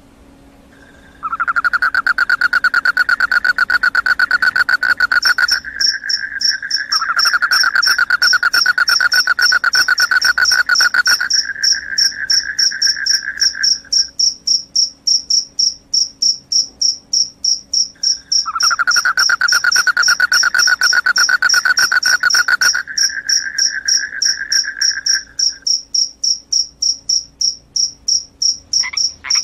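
Crickets chirping loudly in fast, pulsing trills: a high trill that starts abruptly about a second in and runs on, with a second, lower-pitched trill joining in two long bouts of several seconds each.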